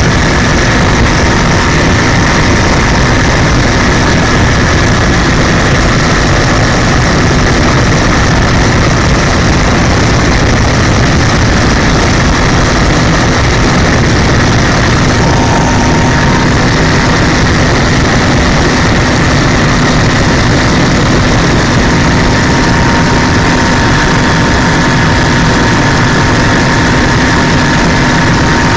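Helicopter in flight: loud, steady engine and rotor noise with a few steady tones running through it.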